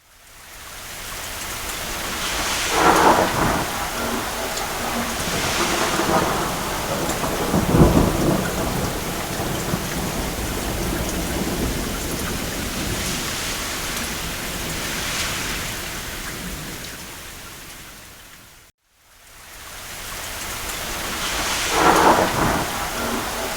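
Steady rain with rolls of thunder, the loudest rumbles about 3 s, 8 s and 22 s in. The sound fades in from silence at the start, then fades out to a brief silence and back in about 19 s in.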